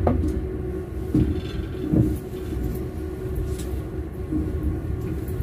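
Train wheels running on the rails: a steady low rumble with a constant hum, broken by a few short knocks near the start, about a second in and about two seconds in.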